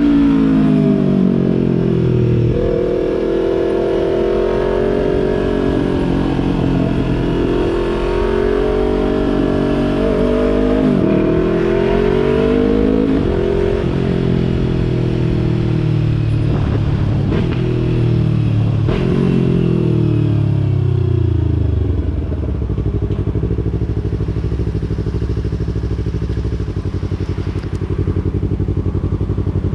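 2020 Yamaha YZF-R3's parallel-twin engine through a Yoshimura exhaust, pulling through the gears with revs rising and dropping at each shift. It then slows down and settles into a steady idle for the last third.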